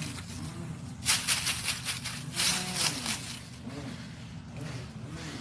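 Crisp crackling crunches in two short bunches, typical of a squirrel biting into and chewing a dry matzo cracker, over a steady low hum.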